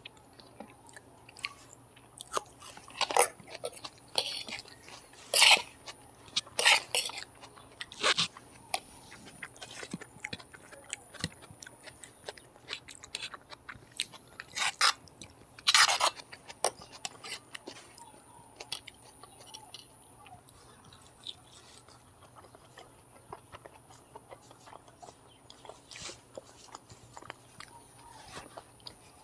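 Close-miked chewing of Maggi noodles and fried egg, with wet mouth clicks and bites, and now and then a fork knocking or scraping on a steel plate. Several louder sharp crunches and clicks come in the first half, then mostly softer chewing.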